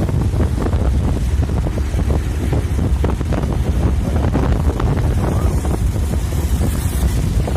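Strong storm wind buffeting the microphone: a loud, steady, rumbling roar with constant irregular gusting.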